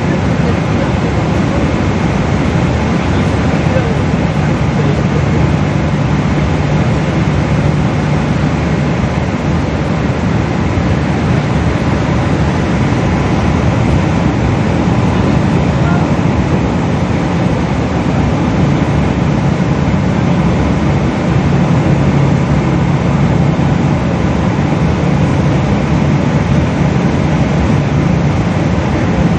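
Boeing 777 jet engines and rushing air heard inside the passenger cabin: a loud, steady low rumble.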